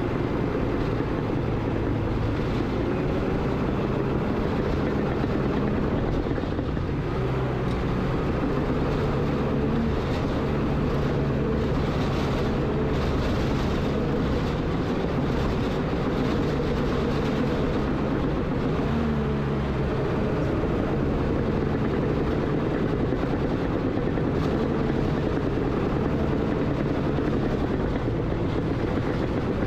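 Diesel engine of heavy earthmoving equipment running steadily, a constant low drone with a steady pitch.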